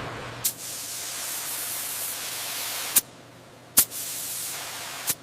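A spray nozzle hissing in two bursts of about two and a half seconds and one and a half seconds. Each burst starts and stops with a sharp click, like a trigger being squeezed and released.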